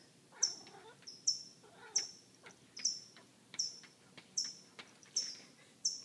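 A bird chirping over and over at a cat: short, high chirps that each drop in pitch, evenly spaced at a little more than one a second.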